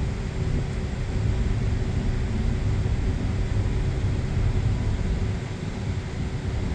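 Steady low rumble with a constant faint hum above it, unchanging throughout.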